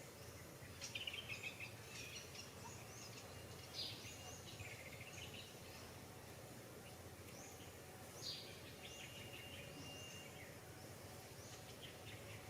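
Faint high-pitched animal calls, a few quick chirps and short falling cries, scattered over steady outdoor background noise, with a clustered run of calls about a second in and others near the middle and later.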